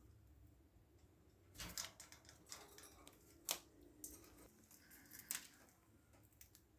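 Faint, sparse clicks and scratches. A small cluster comes about one and a half seconds in, and single sharper clicks come about three and a half and five seconds in.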